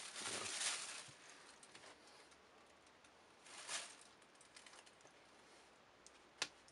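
Faint rustling and handling noises as a boot is lifted out of its box, with a short louder rustle midway and a sharp click near the end.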